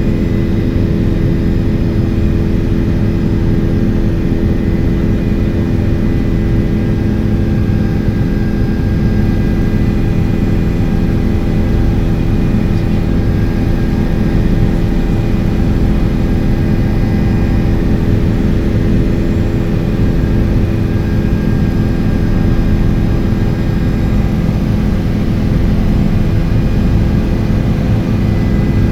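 Helicopter engine and rotor noise, a loud steady drone with a constant hum, unchanging throughout.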